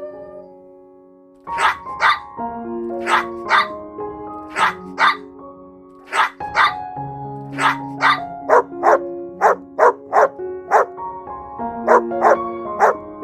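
A dog barking in quick pairs of short barks, again and again, over background music of held notes; the barking starts about a second and a half in.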